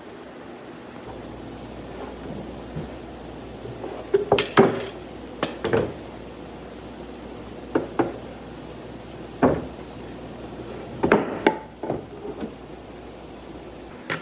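Wooden knocks and taps at irregular intervals, such as wood being struck or set down while it is worked by hand. A few come bunched together about four to six seconds in and again near the end, over a steady background hum.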